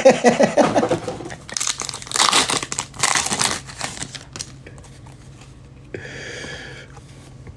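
Trading-card pack wrappers crinkling and tearing as blaster-box packs are opened by hand, in several bursts of rustling.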